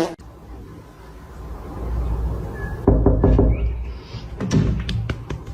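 A series of knocks and thumps in two clusters, about three seconds in and again about five seconds in, over a low rumble.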